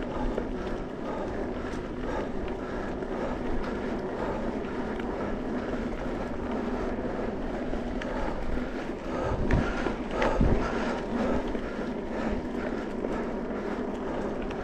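Mountain bike rolling along a dirt trail: a steady rumble of tyres and drivetrain with wind noise on the microphone, and two louder jolts about nine and a half and ten seconds in as it hits bumps.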